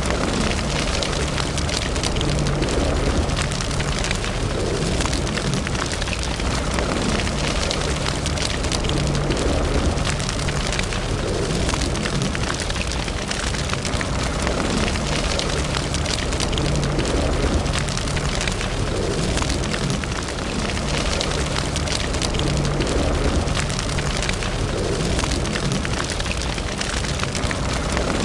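Wood fire burning in a fireplace: a steady low roar of flames with dense, continual crackling and popping.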